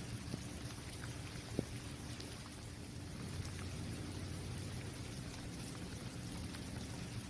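Steady rain falling on a basketball court, an even hiss of drops hitting the hard court surface, with a few louder single drops tapping close by, the sharpest about a second and a half in.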